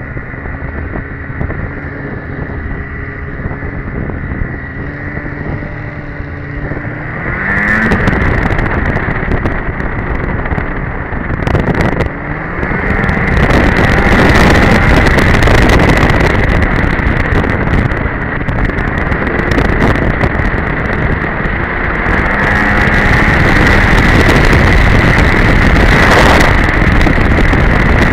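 2002 Polaris Edge two-stroke snowmobile engine running at moderate speed, its pitch rising about seven seconds in as it accelerates. It then runs louder at speed, with wind rushing over the microphone.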